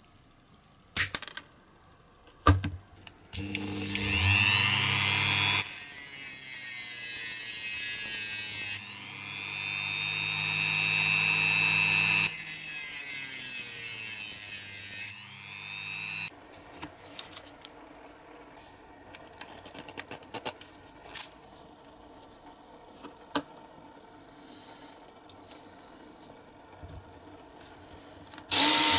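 Small electric rotary tool or hobby drill spinning up, cutting or grinding at the workpiece in two loud stretches with a lighter run between them, then winding down. Small taps and clicks of handling follow.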